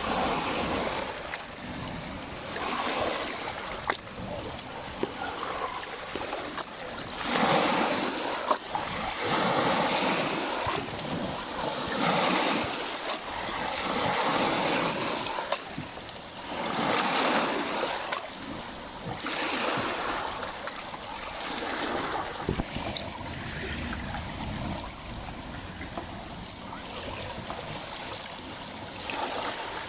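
Lake Balaton water washing in small waves, a steady wash that swells every few seconds.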